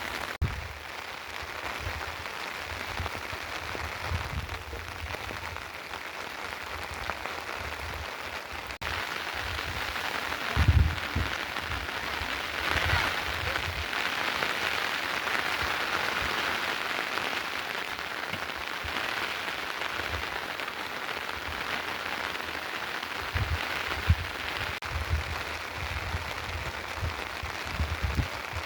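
Steady rain falling, an even hiss with scattered low thuds from drops or gusts.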